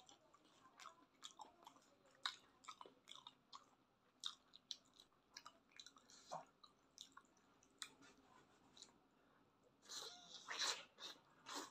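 Close-miked eating of sauced chicken feet: soft wet chewing, lip smacks and small sharp mouth clicks scattered throughout, with a louder run of biting and chewing near the end as a new mouthful goes in.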